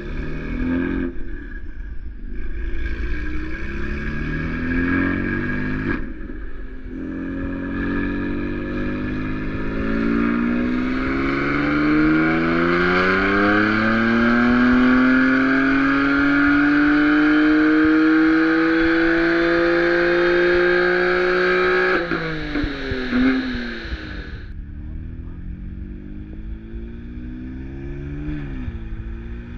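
Car engine making a full-throttle pull on a chassis dyno: the revs climb in a few short steps, then rise in one long steady sweep for about fifteen seconds with a loud rushing hiss. About two-thirds of the way through the throttle shuts suddenly and the engine falls back to lower revs, with a couple of short blips near the end.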